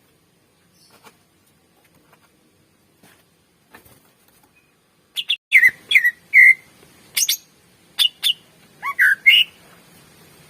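Green leafbird (cucak ijo) singing: after a few seconds of near-quiet with faint ticks, a quick series of loud sharp chirps and short whistled notes begins about halfway in, ending with a note that swoops up.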